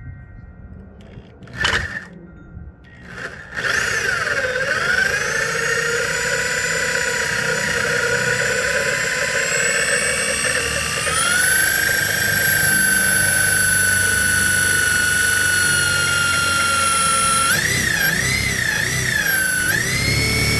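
Two short knocks, then an electric grinder's motor starts about three and a half seconds in. Its whine rises in pitch as it spins up, then runs steadily, stepping up once midway. Near the end the pitch wavers up and down several times.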